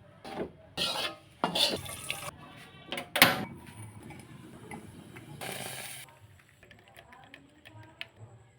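Kitchen utensils knocking and clinking against pots and dishes: a string of sharp knocks over the first few seconds, the loudest just past three seconds, then a brief scrape about two-thirds of the way in and a few light ticks.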